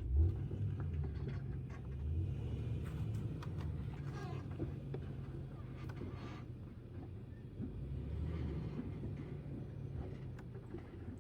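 Four-wheel-drive tow vehicle's engine running at low revs, a steady low rumble, as it slowly manoeuvres a caravan.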